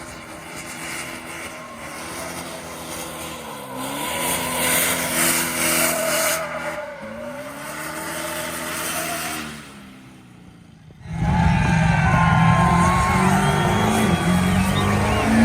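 Engine revving, its pitch dipping and climbing back twice. A brief lull follows, then a sudden loud burnout: the engine held at high revs with the tires squealing.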